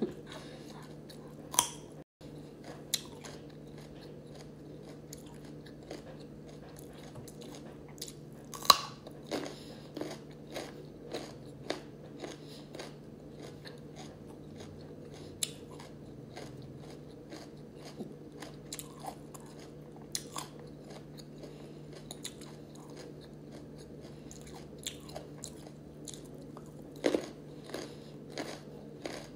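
Crisp bites and crunchy chewing of a raw carrot, irregular crunches with the loudest about nine seconds in and a short cluster near the end. A low steady hum runs underneath.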